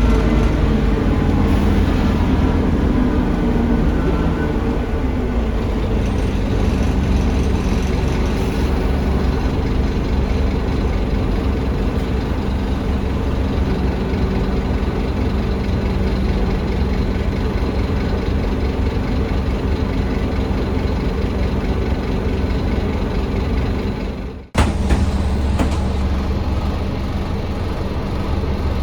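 Scania DC9 five-cylinder diesel of an articulated Scania K310UA bus running under way, heard from on board as a steady low rumble. The engine note falls over the first few seconds, and the sound breaks off for a moment about 24 seconds in before carrying on.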